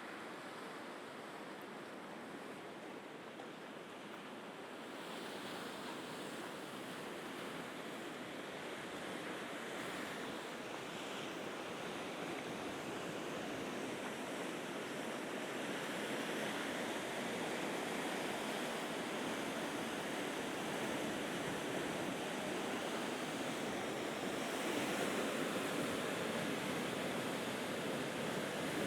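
Mediterranean sea waves washing against the shore in a steady rush of surf, growing gradually louder through the clip.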